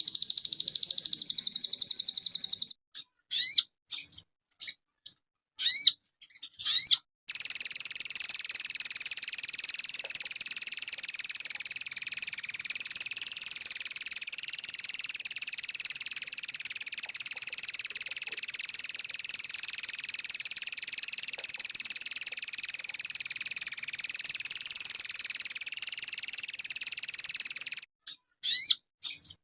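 Sogon songbird singing: a rapid high trill, then a few short, sharp upward-sweeping chirps, then a long unbroken high trill that runs for about twenty seconds before breaking back into sharp rising chirps near the end.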